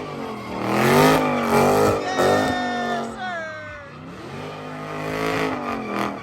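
Car engine revving hard during a burnout or donut, the revs climbing and dropping several times. It is loudest about a second in.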